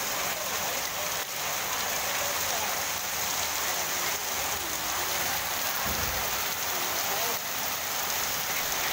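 Torrential rain: a steady, even hiss of a heavy downpour falling on the road and roofs.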